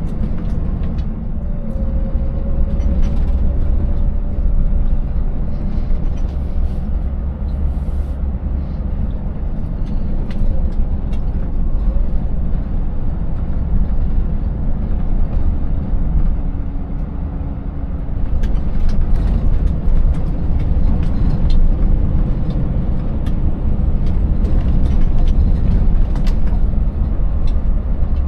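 Scania 590S V8 truck on the move: a steady low engine and road rumble, with frequent short knocks and rattles over it, more of them in the second half, as it runs over a rough, broken road surface.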